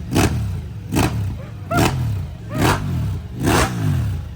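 Motorcycle with a loud aftermarket exhaust being free-revved in quick, repeated blips, about one a second, the revs falling away after each blip.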